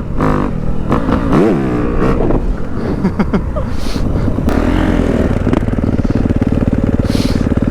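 Dirt bike engine running and revving, its pitch rising and falling in the first couple of seconds, then running steadily.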